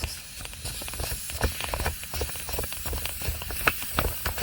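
Air hissing out of an Intex Explorer K2 inflatable kayak through its twist-off valve as the kayak is deflated, with many irregular ticks and knocks throughout.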